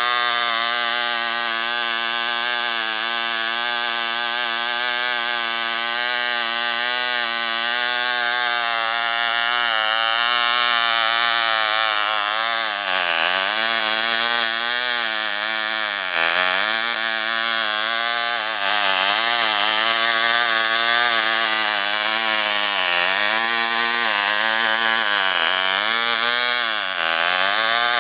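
Vivel 35 spark-ignition model airplane engine running with its propeller, a steady buzzing drone. From about halfway through, its speed sags and picks up again several times.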